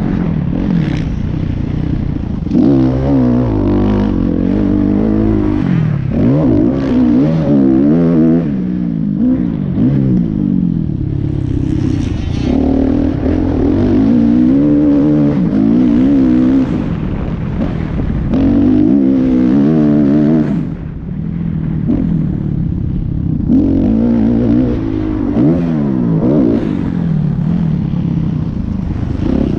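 Motocross dirt bike engine revving hard, its pitch rising and falling over and over as the throttle is worked and the gears change, with a short lull about two-thirds of the way through.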